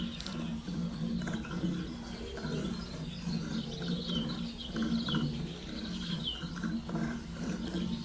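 Rainforest ambience: short, falling bird chirps repeat over a low, pulsing animal call that stops and starts.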